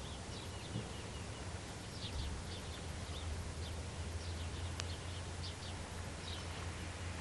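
Small birds chirping in short repeated bursts over a steady low hum and hiss, with a single sharp click about five seconds in.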